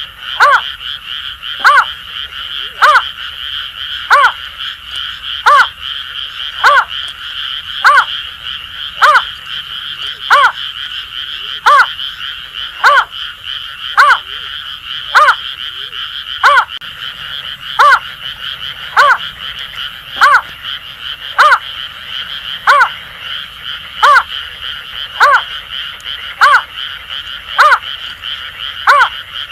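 A Greater Painted-snipe repeats a short hooting call note about once a second, steady and unbroken, over a continuous chorus of Asian grass frogs.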